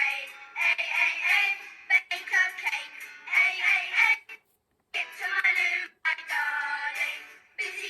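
Children's phonics song playing: short sung phrases over music, with a brief pause about halfway through.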